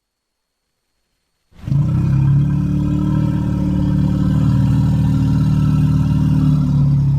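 Cartoon Minotaur sound effect: after a second and a half of silence, one long, low, rough roar holds at a steady pitch for about six seconds.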